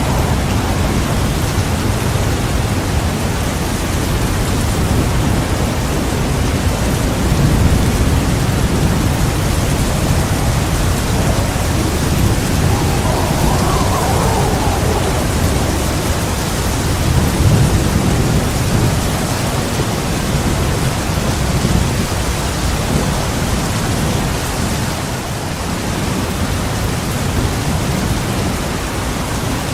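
Heavy rain falling steadily, with low rolling thunder that swells twice, about a quarter of the way in and again past the middle.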